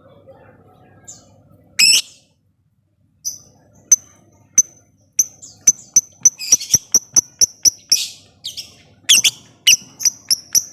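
Lovebird calling in the 'ngetik' pattern: one shrill call, a short pause, then a run of short sharp high chirps that quickens to about three or four a second, broken by a few longer shrill squawks.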